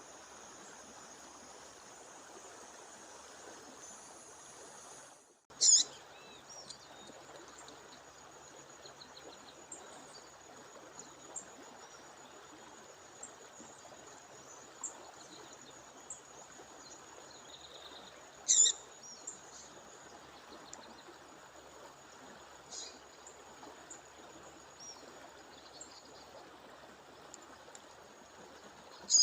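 A female bird calling: a few short, sharp, high chirps several seconds apart, the loudest about six seconds in and near nineteen seconds. Under them runs the steady rush of a waterfall and a thin, steady, high tone. The sound drops out for an instant about five seconds in.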